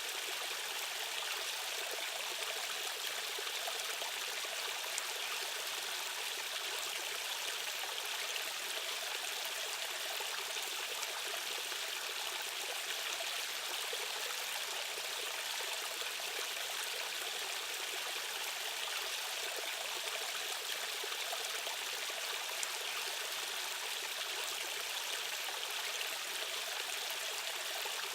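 Rushing stream water running over rocks, a steady, unbroken hiss and splash of current.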